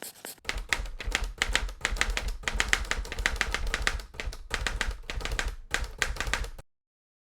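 Rapid, irregular tapping clicks, several a second, over a low rumble; they cut off suddenly near the end into silence.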